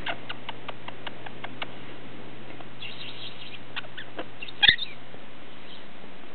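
Quaker parrot making a run of soft clicks, about five a second, then a few scattered clicks and one short, louder chirp about two-thirds of the way through.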